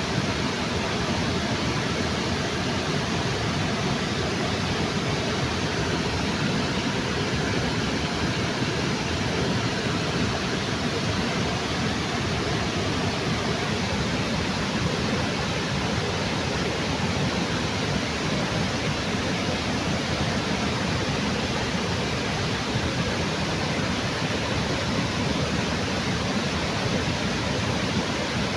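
Small waterfall on a river under a bridge: water falling and rushing with a steady, even roar.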